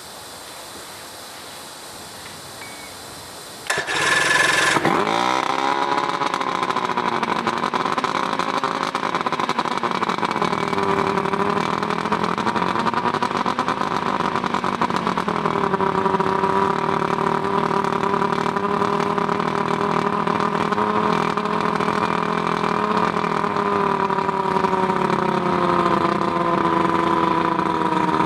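Johnson 140 outboard, a two-stroke V4 with freshly rebuilt carburetors, fires up about four seconds in. Its speed surges, then settles into steady running with a slowly wavering pitch.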